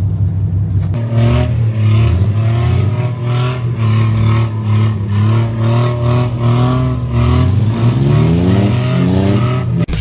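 Car engine running with its pitch rising and falling in a steady rhythm, then revving up near the end before cutting off suddenly.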